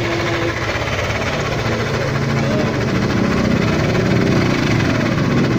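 Yamaha Aerox 155 scooter's single-cylinder engine running steadily, carrying the unusual engine noise that the owner has noticed at about 11,000 km. Its pitch rises a little about two to three seconds in.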